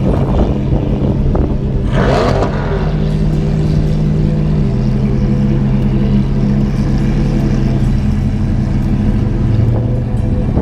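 Car engines idling steadily, with a brief surge of engine noise about two seconds in and the idle note dropping slightly about halfway through.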